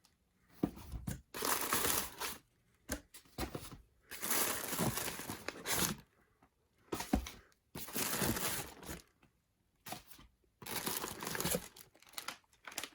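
Packaging being crinkled and torn by hand while unpacking a parcel, in repeated rustling bursts of a second or two with short pauses between them and a few sharp clicks.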